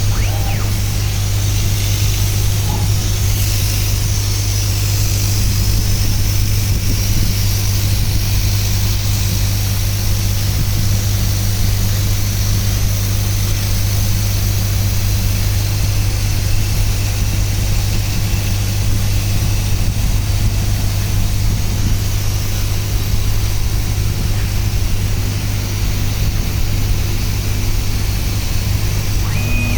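CO2 laser cutting machine running: a steady low hum with an even hiss over it.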